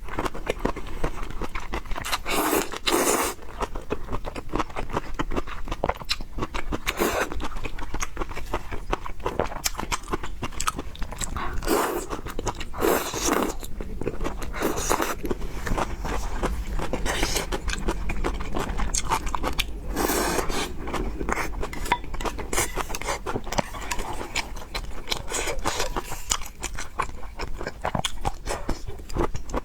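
Close-miked chewing and biting of fried noodles and pork: dense small wet clicks and crunches, with a few louder bursts scattered through.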